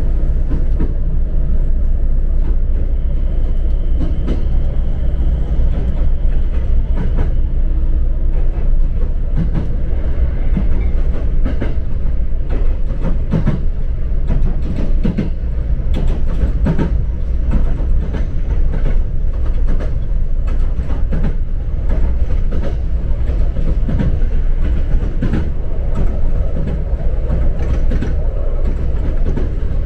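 Passenger train running along the line, heard from inside the carriage: a steady low rumble with irregular clicks and knocks of the wheels on the track.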